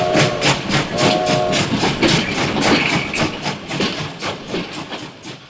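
Steam-train chuffing, a rapid even rhythm of about five chuffs a second, with a short whistle blast about a second in; the chuffing fades away near the end.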